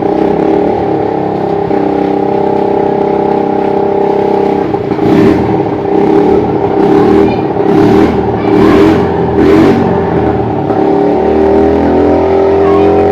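Motor vehicle engine running at a steady pitch. About five short rushing noises come between the middle and two-thirds of the way through.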